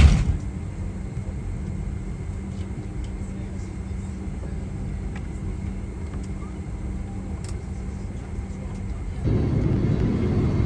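A sharp thump at the start, then the steady low hum of an airliner cabin at the gate with a faint steady tone in it. About nine seconds in, the hum steps up to a louder, fuller rush.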